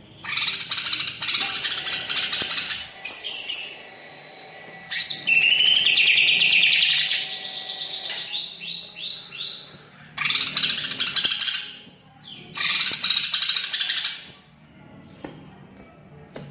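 Greater green leafbird (cucak ijo) singing loudly in bursts of rapid, varied phrases with short pauses between them, a song filled with imitations of other birds' calls. About halfway through comes a run of short repeated rising whistles.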